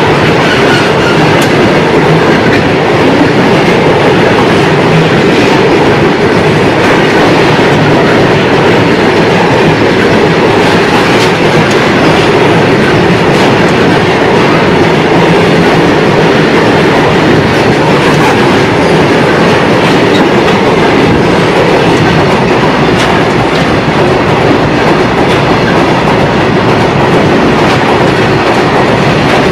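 Freight train wagons rolling past at close range: a steady, loud rumble of steel wheels on rail with repeated clickety-clack of the wheels over the rail joints.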